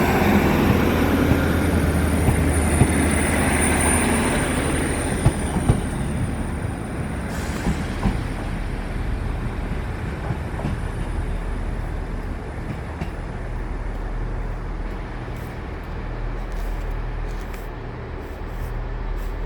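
A train moving off with a steady low engine drone that slowly fades. A thin high squeal sounds in the first few seconds, and a few sharp clicks come about five to eight seconds in.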